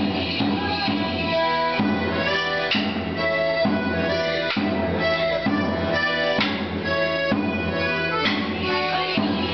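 Live folk tune played with a steady beat as music for morris dancing, the melody carried by sustained reedy tones.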